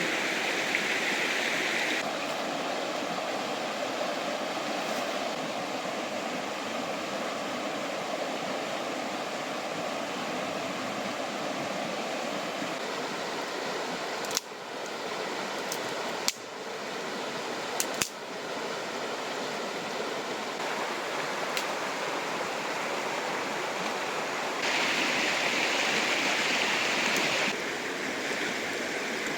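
Fast-flowing river rushing steadily. Its sound changes abruptly several times, and a few sharp clicks come around the middle.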